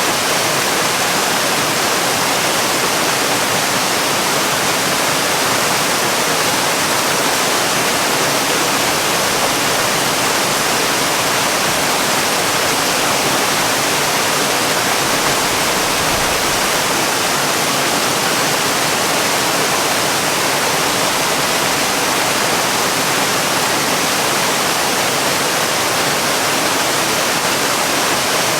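Steady, even rush of falling water from a waterfall, loud and unbroken.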